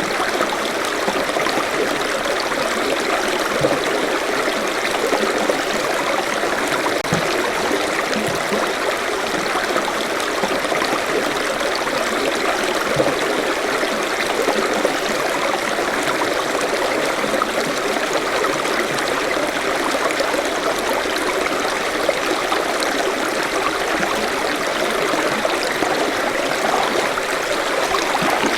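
Forest stream flowing steadily, water running and splashing over rocks.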